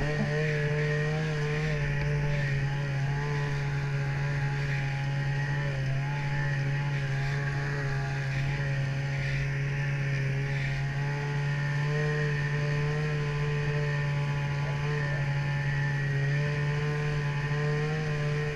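Snowmobile engine running at a steady cruising speed, an even drone whose pitch wavers only slightly.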